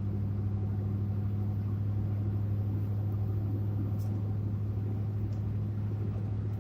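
Pickup truck driving, heard from inside the cab: a steady, even low drone of engine and road noise with no change in pitch.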